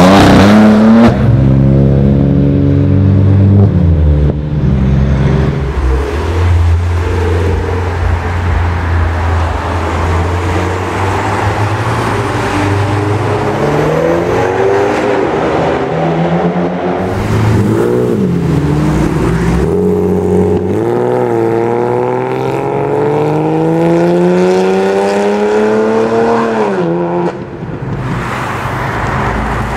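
Performance-car engines accelerating hard, one car after another, beginning with a BMW M4 pulling away. Each engine note climbs in pitch and drops sharply at the gear changes. A long climbing rev near the end cuts off abruptly.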